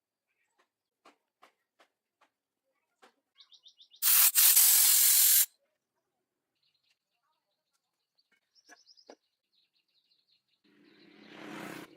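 Birds chirping, broken about four seconds in by a loud, steady hiss lasting about a second and a half. Near the end a louder noise with a low hum under it swells up and stops.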